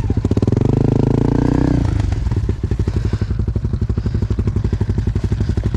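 Dirt bike engine revving hard for about two seconds, then dropping back to a lower, steady chugging.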